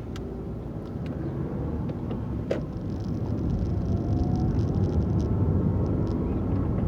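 Car engine and road noise heard from inside the cabin, building steadily as the car gathers speed, with a faint rising whine in the middle and a single click about two and a half seconds in.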